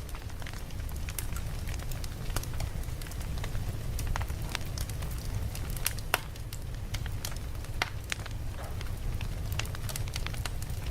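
Campfire crackling, with irregular sharp pops and snaps over a steady low rumble of the flames.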